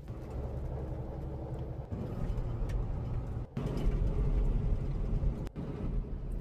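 Semi-truck driving on the highway: a steady low rumble of engine and road noise, broken by a few sudden short gaps.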